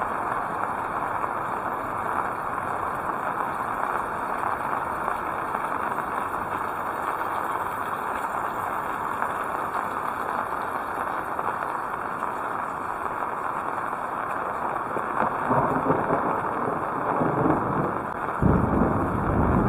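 Heavy rain falling steadily. In the last few seconds louder low rumbling swells come in on top of it.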